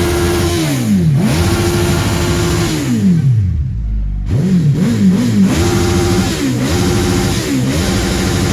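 Motorcycle engine revved hard over and over. The revs climb, hold high for about a second and drop back several times, with three quick blips of the throttle around the middle.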